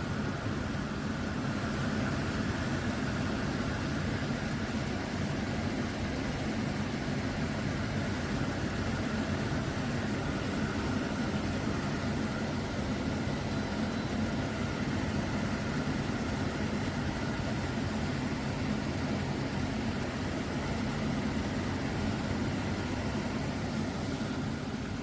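Portable air conditioner running: a steady hum with an even rush of fan air.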